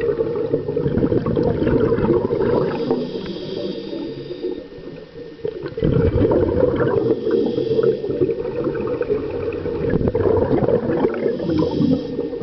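Underwater sound of scuba diving: a dense low rumble of bubbles and water, with a breath through a regulator and a burst of exhaled bubbles about every four seconds.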